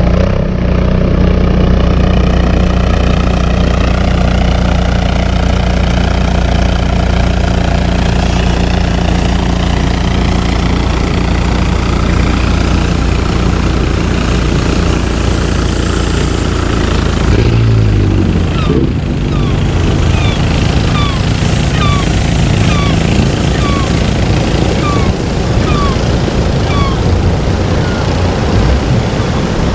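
A vehicle engine running steadily, its pitch shifting about eighteen seconds in. From about twenty seconds in, short falling chirps repeat roughly once a second.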